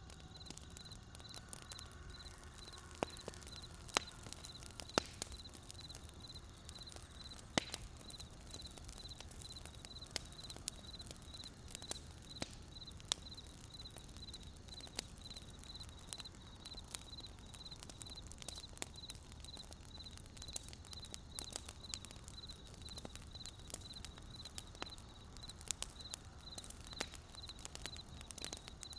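Wood fire crackling, with irregular sharp pops over a low steady rumble of wind. A high, even, pulsing chirp repeats several times a second in the background.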